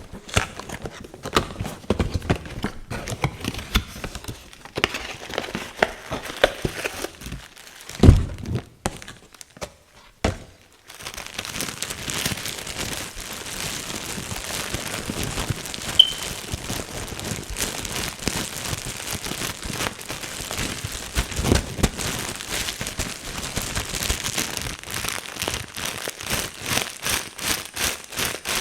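Tapping on boxes in separate knocks, with a heavier thunk about eight seconds in. From about eleven seconds in comes continuous scratching across a box surface, which turns into quick regular strokes, about three a second, near the end.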